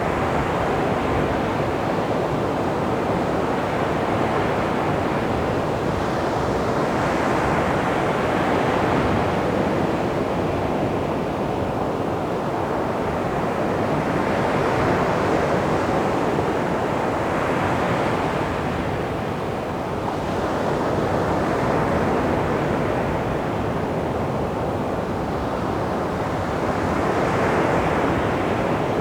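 Sea waves washing onto a beach in a continuous surf, with a wave breaking and swelling up every few seconds.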